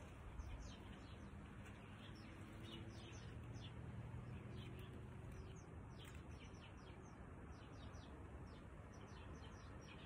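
Small birds chirping in the trees: many quick, high, downward-slurred notes in loose runs, faint over a low steady drone in the background.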